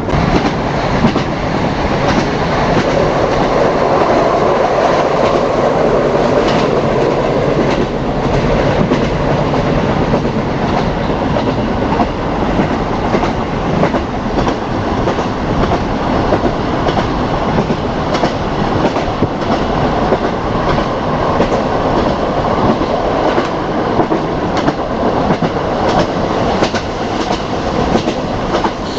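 KiHa 40 diesel railcar running along the line, heard from inside: a steady loud roar of wheels, engine and rushing air, with wheels clicking irregularly over the rail joints.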